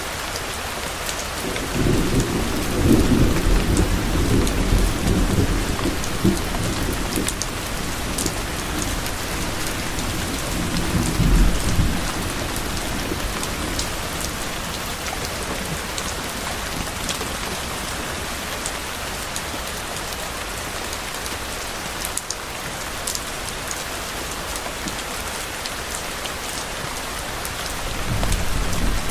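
Steady rain falling, with low rolling thunder rumbling from about a second and a half in until about twelve seconds, swelling twice, and another rumble beginning near the end.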